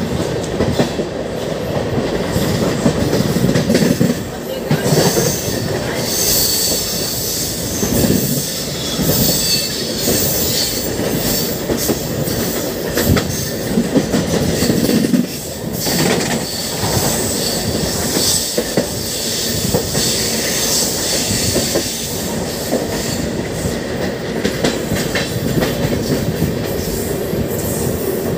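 Indian Railways express train running, heard from on board: a steady rumble of the wheels on the track, with clacks over rail joints and points and spells of higher wheel squeal.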